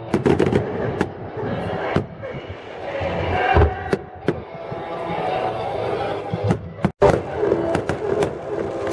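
Fireworks going off in quick succession, sharp bangs and crackles, over music from a sound system and crowd voices. The sound cuts out for an instant about seven seconds in.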